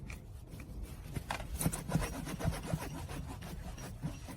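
A run of short rubbing, rasping strokes, bunched together about a second in and thinning out near the end.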